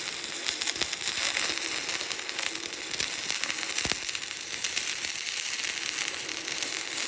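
Stick-welding arc crackling steadily as an electrode burns along a root pass in a vertical-position (3G) test joint.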